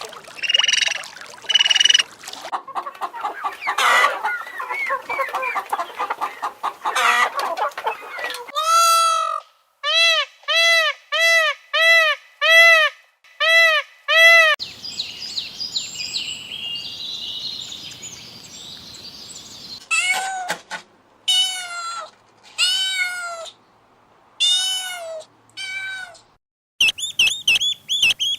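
A run of farm animal and bird calls, one clip after another: mixed chattering calls, then six short arched calls evenly spaced about a second apart, a stretch of high chattering, and five more arched calls near the end.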